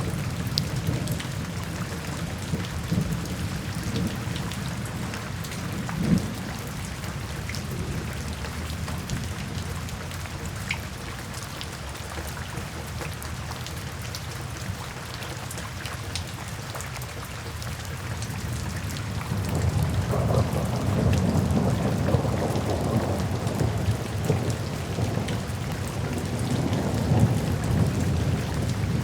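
Steady rain falling into puddles and standing water, with scattered sharp drop splashes. Low thunder rumbles beneath it, easing off mid-way and swelling into a longer roll during the last third.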